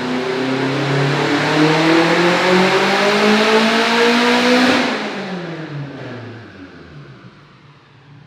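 2007 Subaru STI's turbocharged 2.5-litre flat-four on a dyno pull under full throttle, its engine note climbing steadily in pitch. About five seconds in the throttle closes and the revs fall away and fade.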